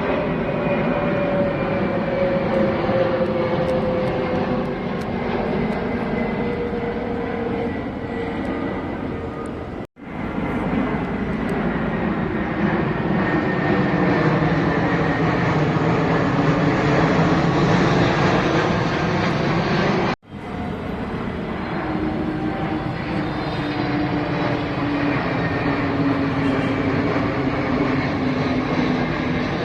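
Airplane engines heard from outside: a loud, steady rush with whining tones that slowly slide in pitch. The sound cuts out abruptly twice, about a third and two thirds of the way through, and comes straight back.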